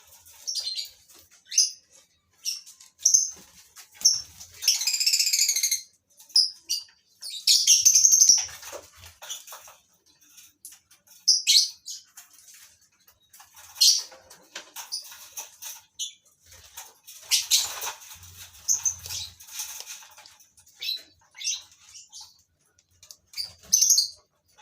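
Lovebirds in a colony cage giving short, shrill, high-pitched calls again and again, with longer noisy bursts about five and eight seconds in.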